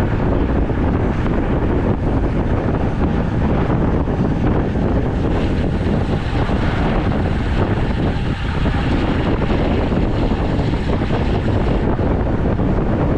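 Steady wind rumble buffeting the microphone of a camera riding along on a road bike at speed.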